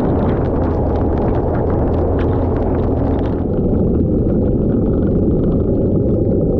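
Off-road vehicle driving a muddy trail, its engine and drive noise running loud and steady, with a rapid patter of sharp ticks over it that stops about three and a half seconds in, leaving a duller rumble.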